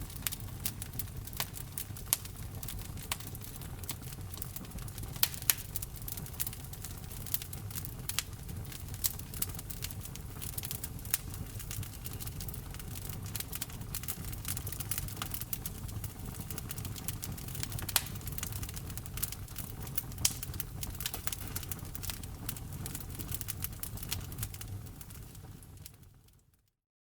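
Wood fire in a fireplace crackling, with frequent small sharp pops and a few louder ones over a steady low rumble of burning. The fire sound fades out shortly before the end.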